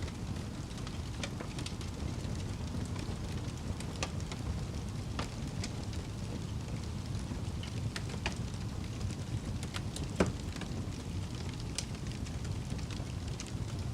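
Wood fire crackling in a fireplace: a steady low rumble of burning with irregular sharp pops and snaps, the loudest pop about ten seconds in.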